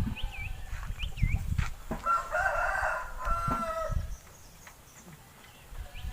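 A rooster crowing once, a drawn-out call about two seconds in that lasts about two seconds, with short high chirps from small birds before and after it.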